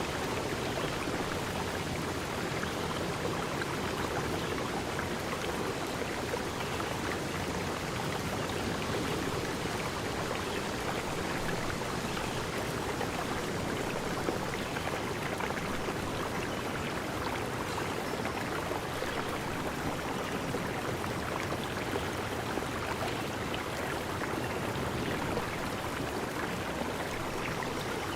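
Water flowing in a steady, even rush, like a stream running over stones.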